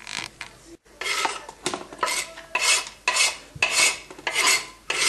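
Cheese being grated on a metal grater: a steady run of rasping strokes, about two a second.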